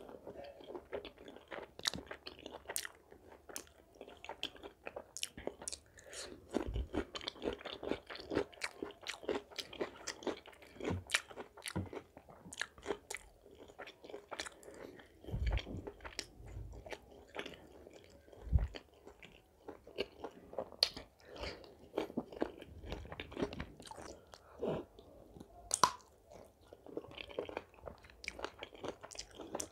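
A person chewing food with the mouth close to the microphone: irregular wet mouth clicks, smacks and crunches, as in an eating ASMR recording. A few dull low bumps are heard along the way, the loudest just past the middle.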